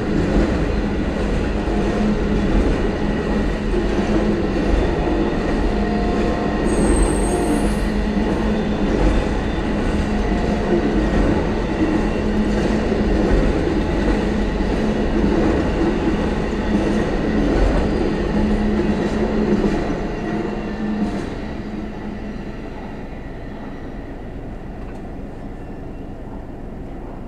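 Amtrak Auto Train's enclosed auto-carrier cars rolling past at a grade crossing: a steady, loud rumble of wheels on rail. It fades about twenty seconds in as the end of the train passes.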